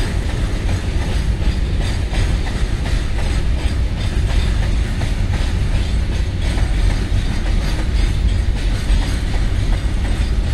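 Container flat wagons of a freight train rolling over a railway bridge: a steady low rumble with the clickety-clack of wheels over the rail joints.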